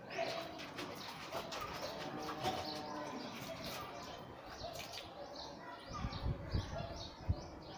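Birds chirping over and over, about three calls a second in the latter half, with cooing underneath. A few dull low thumps come near the end.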